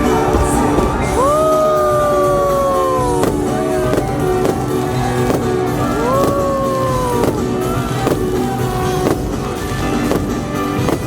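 Fireworks show with its music soundtrack playing loudly. Fireworks go off as a scattering of sharp bangs and pops through the music.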